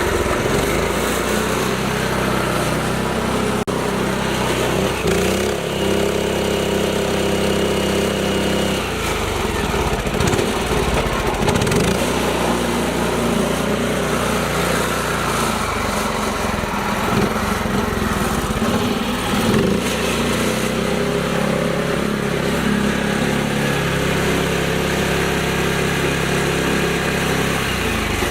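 Mini tractor's small engine running steadily, its pitch shifting up and down several times as the throttle and load change.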